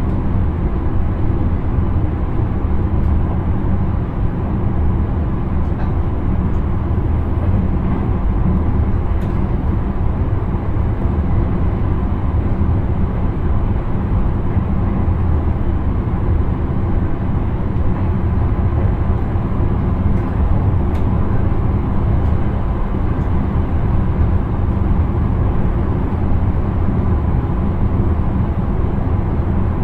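Intercity train running steadily on the line, a constant low rumble of wheels on rail and traction noise heard inside the driver's cab, with a few faint ticks now and then.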